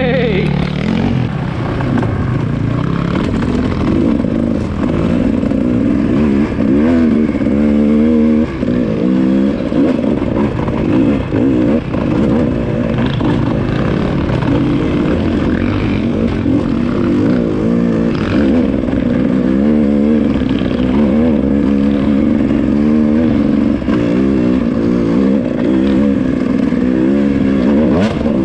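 Dirt bike engine running hard on a trail ride, its revs rising and falling continually with the throttle.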